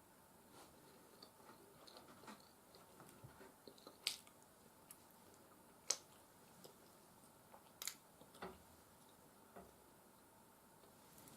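Quiet chewing and wet mouth sounds of a person eating soft mashed potatoes and beef stew, with scattered small smacks and a few sharp clicks, the loudest about four, six and eight seconds in.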